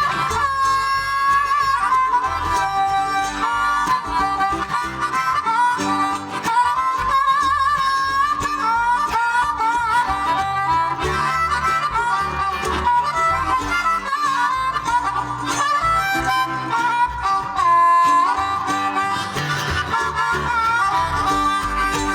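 Live bluegrass band playing an instrumental break: a bending, warbling lead melody over strummed guitar and bass.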